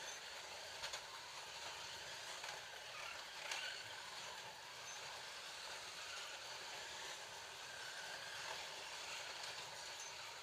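Scalextric slot cars running on the track: a steady whirring of small electric motors and cars rattling along the plastic slot, with a few sharp clicks about a second and three and a half seconds in.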